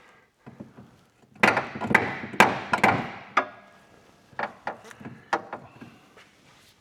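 Irregular metallic clanks and knocks of hand tools and loose metal parts being worked on exhaust manifold hardware: a dense flurry in the first half, then a few single knocks later.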